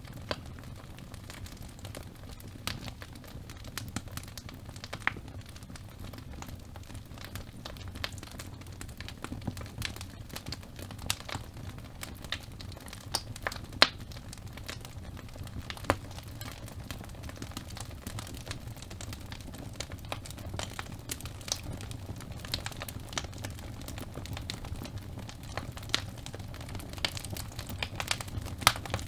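Wood fire burning in a fireplace: irregular crackling and snapping of burning logs over a low steady rumble of the flames, with a few louder pops, the loudest about 14 seconds in.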